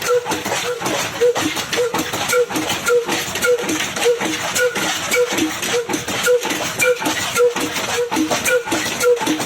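Old single-cylinder Ruston Hornsby diesel engine running at a slow, even beat of about two strokes a second, with sharp mechanical clatter over it.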